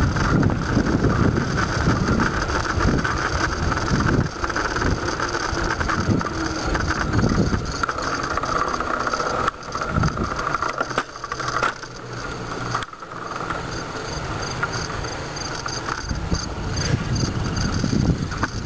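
Bicycle ride with wind buffeting the microphone, a heavy rumble over the bike's steady running noise; the rumble eases about halfway through.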